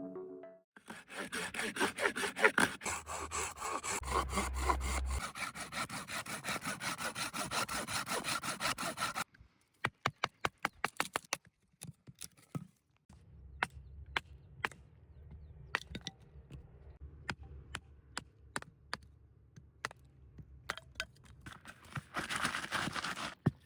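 Hand saw cutting wood in quick rhythmic strokes for about eight seconds, followed by a run of separate sharp clicks and snaps, and a short burst of scraping near the end.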